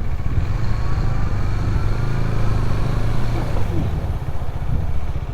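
Motorcycle running on the road with a steady low rumble of engine and wind on the microphone; the engine note climbs during the first few seconds as it speeds up.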